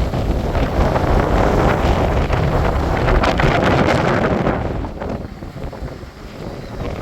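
Strong storm wind gusting and buffeting the microphone, easing off about five seconds in before picking up again.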